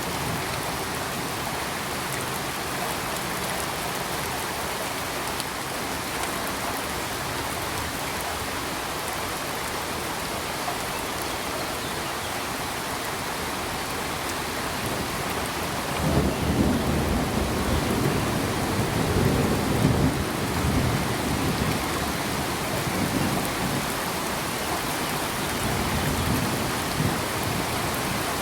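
Steady rain falling. A little past halfway a low rumble swells up and goes on, rising and falling, to the end.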